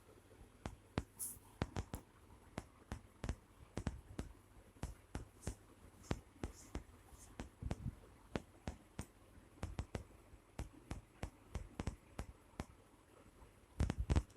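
Cat and kitten play-fighting with a person's hand: irregular light taps and scratchy scuffs, a few a second, with a louder cluster of knocks near the end.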